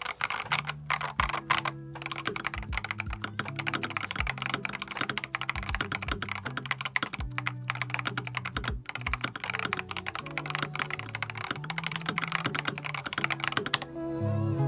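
Typing on an Epomaker TH80 Pro mechanical keyboard with Flamingo switches: rapid, continuous keystrokes with a few brief pauses, stopping about fourteen seconds in. Background music with low held notes plays underneath.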